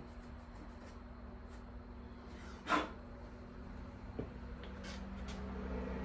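Small hand-tool work on a leaf blower's cylinder: one short scrape about three seconds in, then a small tick and a few light clicks, over a faint steady hum.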